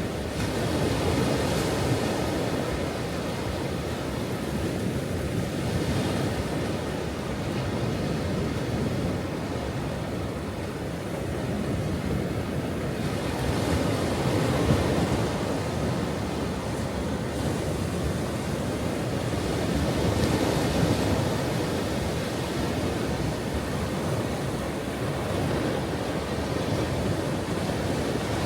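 Ocean waves washing onto a shore, a continuous rushing surf that swells and eases every few seconds.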